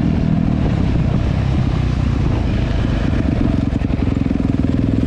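Dirt bike engine running under throttle, its note shifting about three and a half seconds in.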